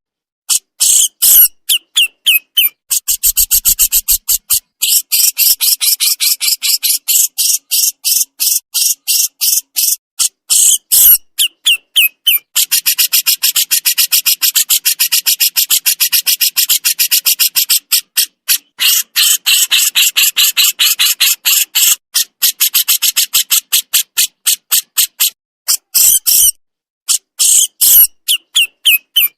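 Javan 'jenggot' songbird giving besetan: rapid, harsh, high-pitched chattering calls repeated several times a second in long runs, broken by a few short pauses.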